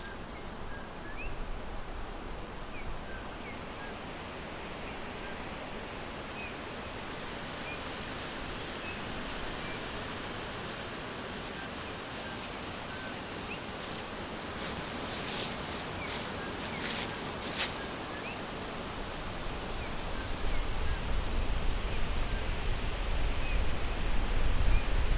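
Forest ambience: a steady rushing hiss with faint, short bird chirps scattered through it. A few sharp crackles come about two-thirds of the way in, and a low rumble builds over the last few seconds.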